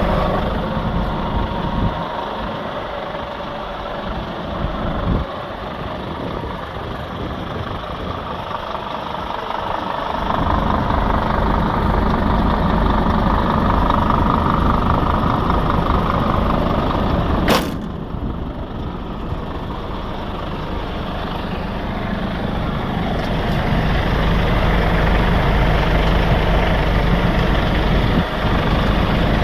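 Scania P 280 truck's diesel engine running steadily, dropping in level for a while and then swelling again. One sharp click cuts through about two-thirds of the way in.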